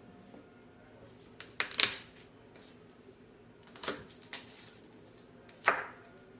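Several sharp knocks and clatters of kitchen utensils and cookware being handled: two close together about a second and a half in, two more around four seconds, and a last sharp one near the end.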